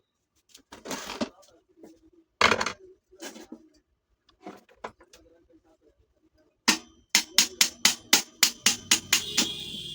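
Sharp metal-on-metal knocks: a few spaced strikes at first, then a quick run of about a dozen at roughly four a second, ending in a high ringing of struck metal near the end.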